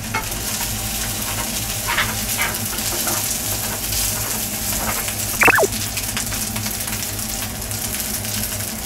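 Chicken and onion sizzling steadily as they fry in an oiled pan and are stirred. About five and a half seconds in, a short high squeal falls sharply in pitch.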